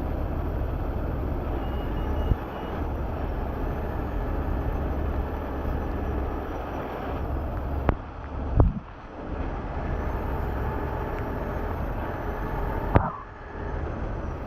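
Steady low rumble of running vehicle engines, with a few sharp knocks: two close together just past the middle and one near the end.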